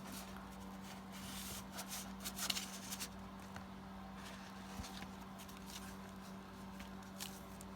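Paper tags and cards being handled on a tabletop: a few faint scattered rustles and light taps, over a steady low hum.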